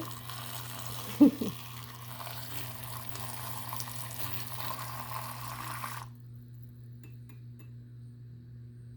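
Water running from a tap, shut off abruptly about six seconds in, over a steady low hum. A short, loud pitched vocal sound that rises and falls comes just after a second in.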